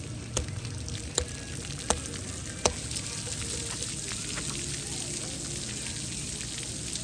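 Splash pad water jets spraying, a steady hiss that grows stronger after about three seconds. Four sharp clicks come in the first three seconds, evenly spaced.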